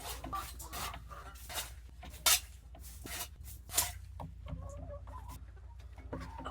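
Hens clucking with short calls, over a series of scraping strokes and a sharp knock about two seconds in, typical of droppings being scooped from the coop floor.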